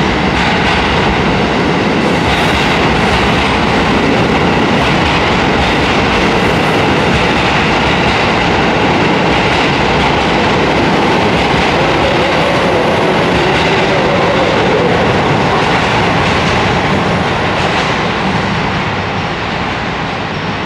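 Train running on the rails: a loud, steady rumble of wheels and running gear with some clickety-clack over rail joints, easing slightly near the end.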